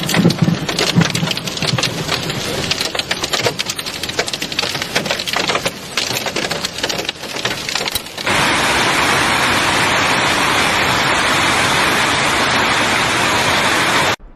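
Hailstones striking hard surfaces in a dense, uneven clatter. About eight seconds in, it cuts abruptly to a steady, even rush of a heavy storm downpour.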